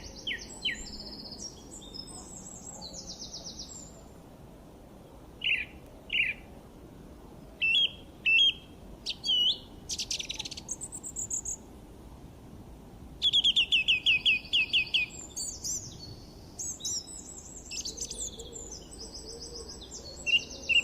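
Songbirds chirping and singing in a varied series of short high calls, whistles and trills, with a quick run of about eight falling notes around the middle.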